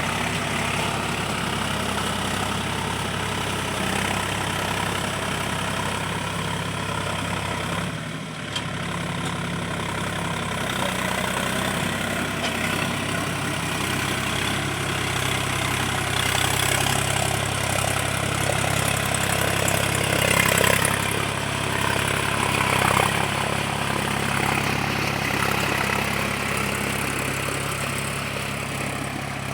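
Mahindra 275 DI tractor's three-cylinder diesel engine running steadily while ploughing. It dips briefly and shifts in pitch about a quarter of the way through, and runs a little louder past the middle.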